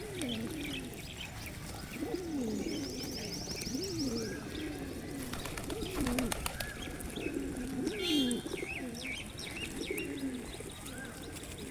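Pigeons cooing over and over while being fed, with smaller birds chirping and a short rapid trill now and then.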